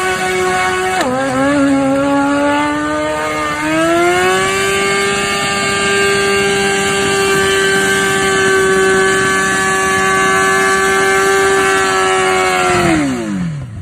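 Motorcycle engine at high revs under hard acceleration. The note drops and climbs again about a second in and once more at about three and a half seconds, as it shifts up through the gears. It then holds a steady high pitch and falls off steeply near the end.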